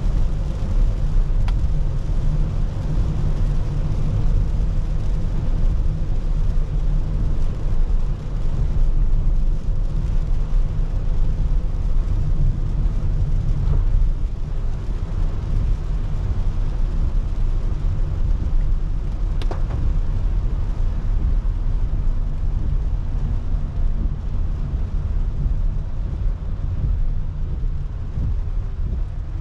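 A car driving on a wet road, heard from a dashcam inside it: a steady low rumble of tyre and engine noise with a hiss of rain and spray over it, and a faint click or two.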